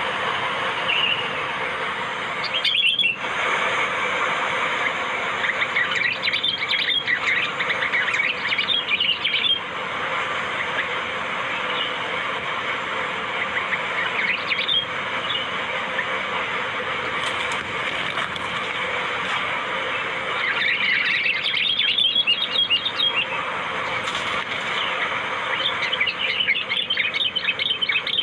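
Sooty-headed bulbul (kutilang) lure calls: bursts of rapid, chattering chirps every few seconds over a constant busy background of birdsong.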